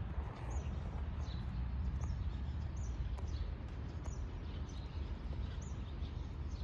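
Small birds chirping, short high chirps repeating about once a second, over a steady low outdoor rumble.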